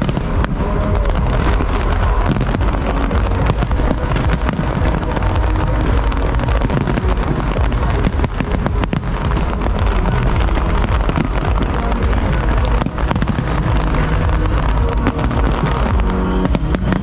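Large fireworks display going off in quick succession: a continuous barrage of bangs and crackling with a heavy low rumble, and music playing along with it.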